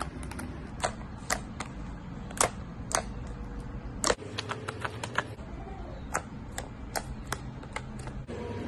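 Pink slime being poked and pressed by fingers, giving irregular sharp clicking pops, a couple of them louder, over a low steady hum.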